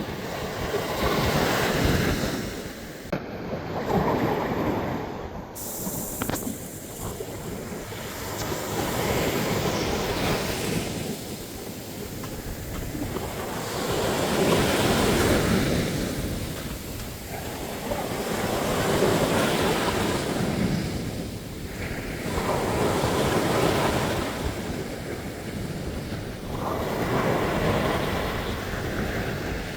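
Ocean surf breaking on a sandy beach, each wave surging up and washing back every four to five seconds.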